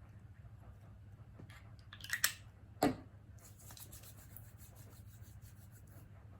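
Quiet handling noises over a low steady hum: a few short rustling clicks about two seconds in, a single knock just after, then a faint fine crackle of rapid ticks.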